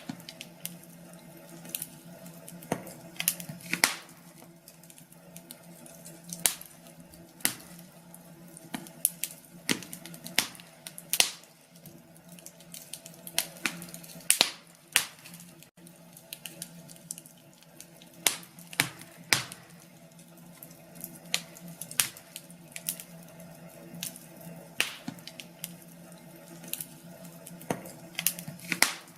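Wood fire burning in a fireplace, crackling with sharp, irregular pops, often several a second, over a low steady hum.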